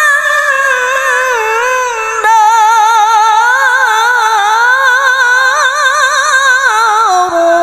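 A woman's voice in melodic Quran recitation (tilawah), drawing out one long, high ornamented melisma with quick wavering turns in the pitch. It breaks off briefly about two seconds in, starts again, and settles down onto a lower held note near the end.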